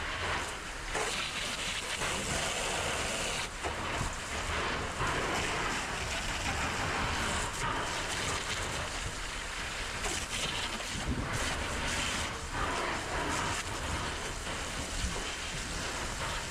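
Steady rushing hiss of water spraying from a firefighting hose nozzle, with a few faint knocks.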